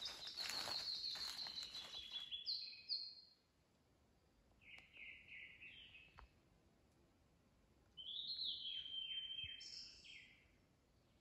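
A songbird singing three short phrases of clear whistled notes, the last a falling series. Footsteps crunch on the trail during the first two seconds.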